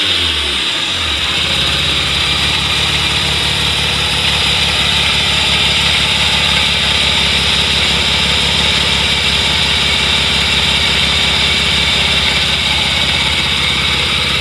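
Mazda RX-7 FC3S's 13B twin-rotor rotary engine dropping from a rev back to idle about a second in, then idling steadily during an engine running check.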